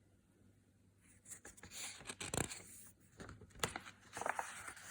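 Paper rustling with a few sharp clicks as a book page is handled and turned, starting about a second in.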